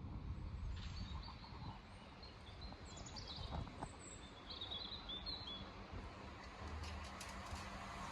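Small birds chirping in short scattered calls over a low outdoor background rumble, with a faint steady low hum coming in about five seconds in.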